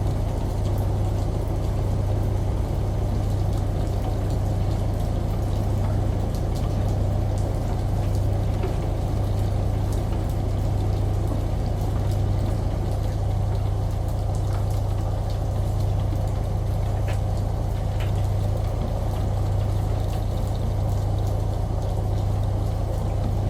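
Washing machine running with a steady low motor hum, mixed with continuous running and pouring water. Faint scattered ticks.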